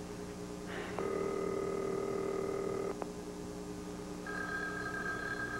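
Telephone ringing heard down the line after dialling: one steady ring tone lasting about two seconds, then a second, higher tone starting about four seconds in.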